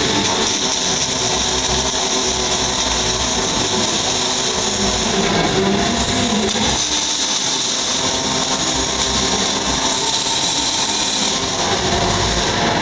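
Pulsed MIG/MAG welding arc from a Panasonic welding robot welding a frame, a steady hiss without a break.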